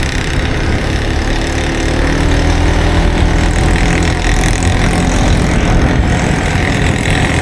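Motor vehicle engine running steadily on the move, with a slight rise in pitch and loudness about two seconds in.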